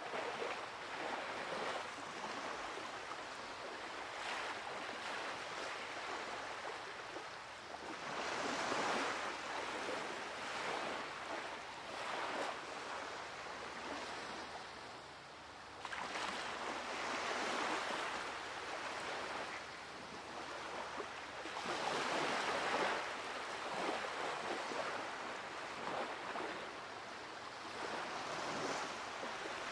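Ocean waves breaking on a shore: a wash of surf that swells and ebbs every few seconds, as a recorded sound effect.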